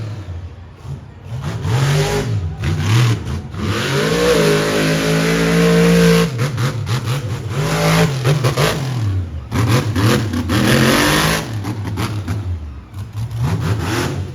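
Monster truck's supercharged V8 engine revving hard in repeated surges. It holds high revs for about two seconds a third of the way in, then drops off and surges again.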